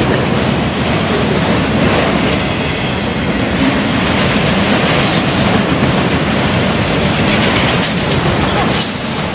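Loaded CSX autorack freight train rolling past close by: a loud, steady rumble and rattle of the cars' wheels on the rails, with brief high hissing twice near the end.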